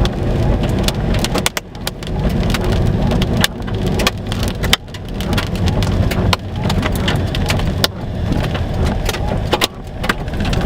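Heavy rain drops striking with many sharp, irregular taps over a continuous, strong low rumble, in a tornado-producing supercell thunderstorm.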